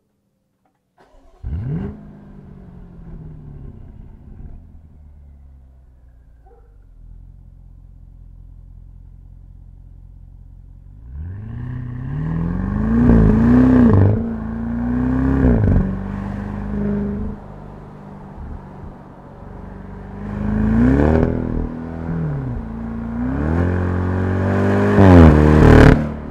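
2015 BMW 650i Coupé's twin-turbo V8 starting up with a sudden loud flare of revs that settles to a steady idle. From about 11 seconds in, the engine revs rise and fall sharply several times, the loudest near the end.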